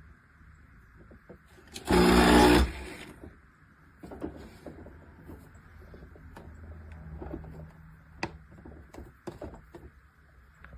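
A short, loud electric buzz lasting under a second about two seconds in, followed by scattered light clicks and taps over a low hum.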